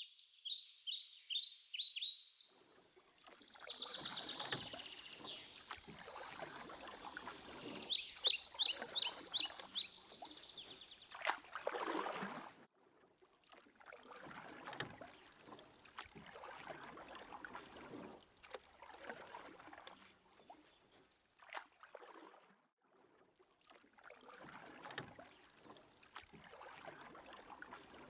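A bird calling in quick runs of high repeated notes, once at the start and again about eight seconds in, over the irregular swish and splash of canoe paddle strokes in river water.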